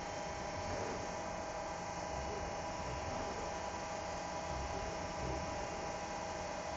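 CNC turning centre running steadily with no cutting: an even machine hum with a few steady tones over a hiss, as during a program dry run.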